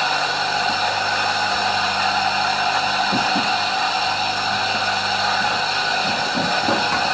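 Homemade rice flour mill driven by a washing-machine motor, running steadily as its blade grinds brown rice: an even whirring hum with a few faint knocks.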